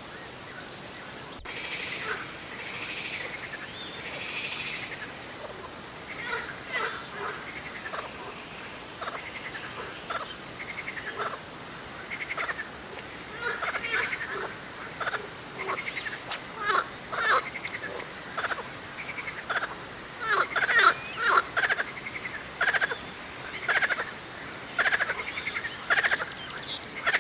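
Frogs croaking: short calls repeated in quick runs, getting louder and more frequent from about twenty seconds in.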